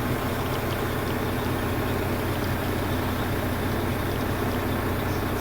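Diesel semi-truck engine idling steadily.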